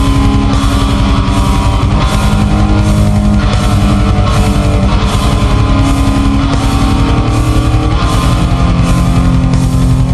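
Loud post-rock / blackgaze band music: electric guitars holding chords over drums, with a very fast, even pulse in the low end and a bright wash above.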